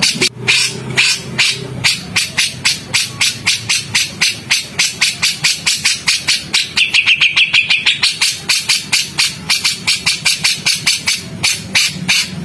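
Recorded songbird giving a rapid run of harsh, clicking chatter notes, about five a second, with a brief held high note about seven seconds in. These are the rough 'shot' notes used in bird-training recordings.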